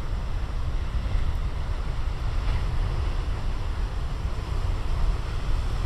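Big ocean waves crashing and washing on the beach, with wind buffeting the microphone and adding a heavy low rumble.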